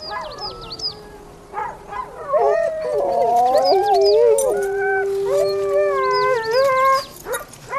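Several huskies howling together, long wavering howls overlapping at different pitches, mixed with short high yelps. The dogs are restless, eager to get going.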